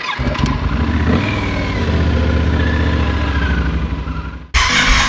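Motorcycle engine running with some revving, then cutting off suddenly near the end to a loud rushing noise.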